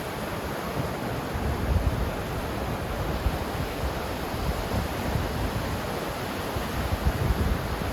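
Ocean surf washing ashore in a steady hiss, with low rumbling swells rising and falling every few seconds and some wind on the microphone.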